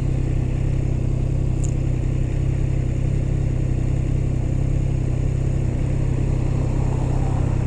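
Motorcycle engine idling steadily, the bike held at a stop in gear with the clutch pulled in.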